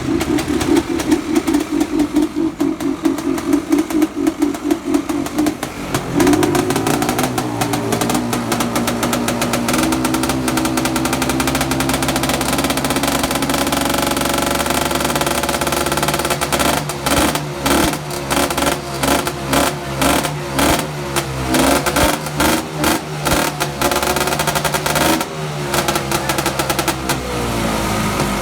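Vehicle engines running and revving under load. A pulsing engine note gives way about six seconds in to a steadier, higher-pitched run, with a rhythmic beat through the later part.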